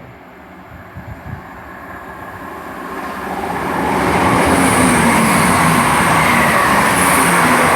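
Two coupled Chiltern Railways Class 168 diesel multiple units approaching and passing through the station, the engine and wheel noise building over the first few seconds and then loud and steady.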